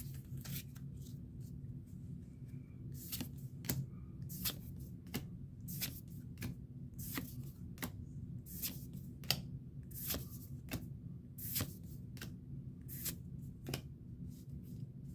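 Pokémon trading cards being handled and slid one behind another while a freshly opened booster pack is flipped through: short, sharp card swishes and snaps at an irregular pace, over a steady low hum.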